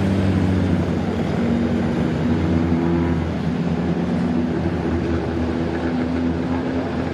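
Engines of a field of Mighty Trucks race trucks running together at slow caution pace, a steady drone of several overlapping engine notes that drift slightly in pitch.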